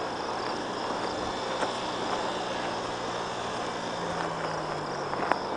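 Small off-road engine running steadily at low speed, its pitch shifting slightly about four seconds in, with a steady high hiss above it.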